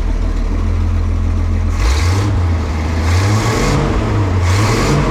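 1965 Ford Econoline's engine running steadily, then revved three times in quick succession near the end; freshly adjusted and running well.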